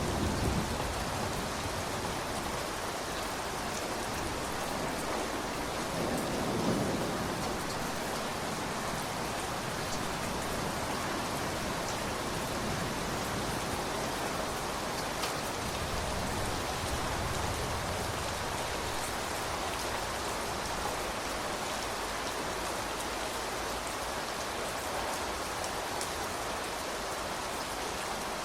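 Steady rain falling, with low rumbles of thunder at the start and again about six seconds in.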